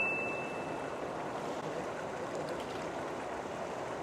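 Steady rush of water below a dam, an even hiss with no rhythm. A thin high ringing tone fades out in the first half second.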